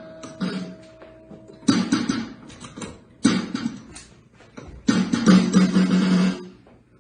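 Music on a strummed, plucked string instrument: three separate chords struck about one and a half seconds apart, the last one held longer before it stops near the end.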